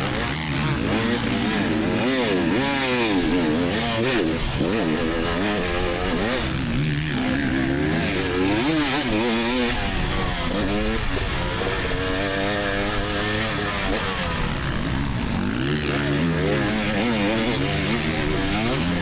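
Two-stroke engine of a 2024 GasGas EX300 dirt bike revving up and falling off again and again as the throttle is worked, pitch climbing and dropping every second or two.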